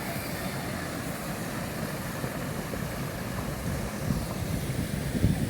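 Waterfall: a steady rush of falling water with a deep rumble underneath, and a few low thumps near the end.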